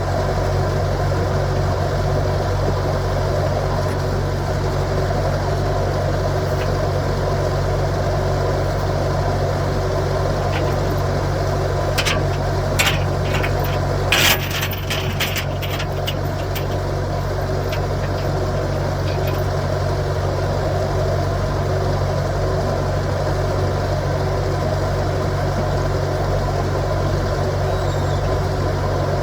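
Skid steer engine running steadily while working at a tree stump, with a short cluster of sharp knocks and clanks about halfway through.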